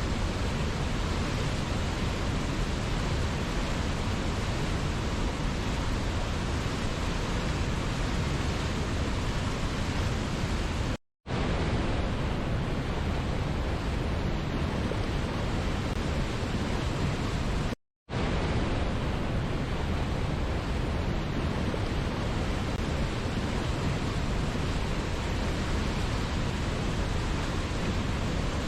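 Steady, even rushing of falling water from a waterfall, with no distinct splashes or changes. It cuts out to silence twice for a fraction of a second, about eleven and eighteen seconds in.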